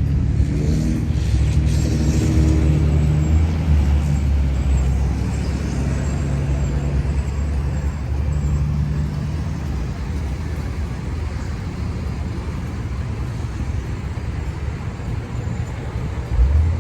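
Street traffic: a car engine's low rumble, strongest over the first few seconds as a vehicle goes by, then steadier road noise, with a brief louder burst near the end.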